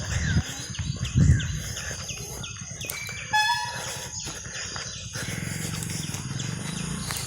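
Birds chirping outdoors, a quick run of short falling calls for the first few seconds, over a steady low background hum.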